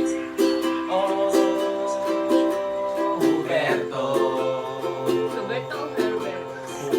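Ukulele music: plucked chords played without singing, with a chord change about three seconds in.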